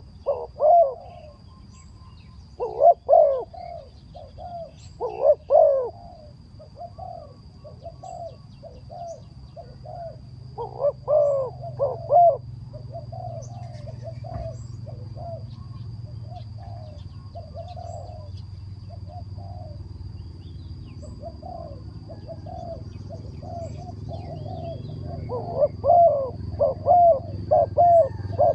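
Birds calling in repeated short notes, in clusters separated by quieter gaps, with a steady faint high-pitched tone and a low rumble underneath.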